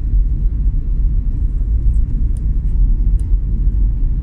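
Steady low rumble of wind and road noise on the microphone of a moving vehicle, with a few faint ticks in the middle.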